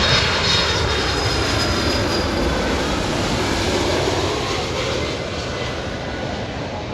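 Boeing 767-300 freighter's twin GE CF6 turbofans on landing, a steady jet rush with a thin high whine early on that fades, the whole sound slowly dying away as the aircraft moves off.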